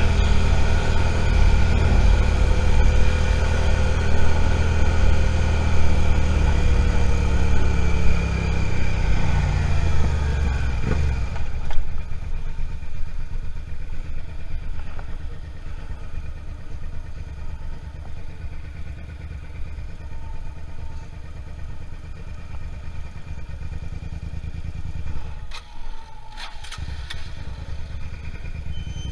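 Suzuki SV650's V-twin engine running under way, its pitch falling over a few seconds as the bike slows, then idling steadily for the rest. A few sharp clicks come near the end.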